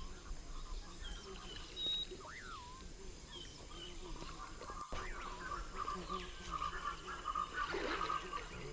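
Wild animal calls: whistled calls that sweep up and then fall, heard twice, then a run of short repeated notes over a faint background hum of the forest.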